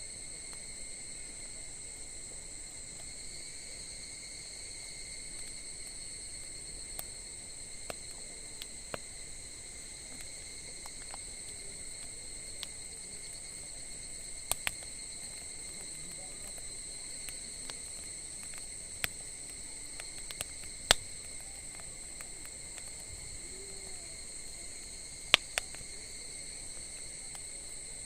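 Wood fire in a campfire stand crackling, with scattered sharp pops, the loudest about three-quarters and nine-tenths of the way through, over a steady high trill of insects.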